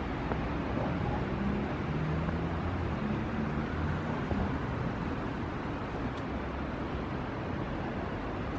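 Steady road traffic rumble, with a vehicle's engine hum heard passing from about one to four seconds in.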